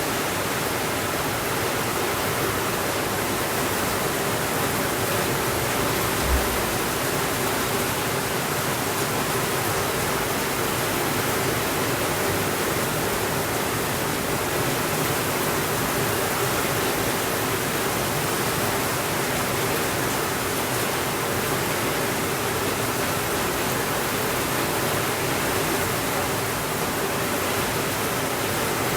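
Heavy rain falling steadily, an even hiss that does not change. There is a single brief low thump about six seconds in.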